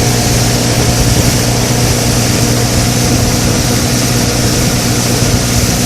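Motorboat engine running steadily at cruising speed, heard from aboard, under a constant rushing noise.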